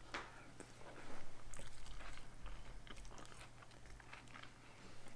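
A person chewing a mouthful of soft stuffed bell pepper with a rice-and-meat filling, with small wet mouth clicks.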